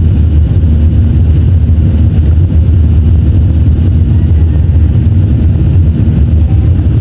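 Boeing 737-500 cabin noise: a loud, steady low rumble from the engines and airflow, unchanging throughout, with a faint steady hum above it.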